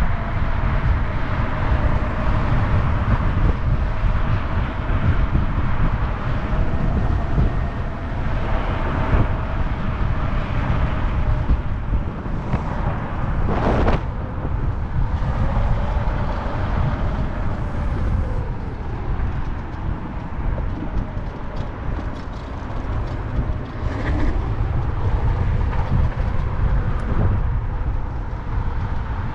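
Road and engine noise heard inside a moving car: a steady low rumble with a faint wavering hum, and one short noise about halfway through.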